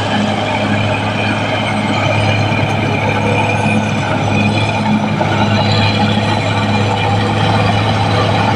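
Caterpillar D6R XL bulldozer's diesel engine running steadily with a deep, even drone.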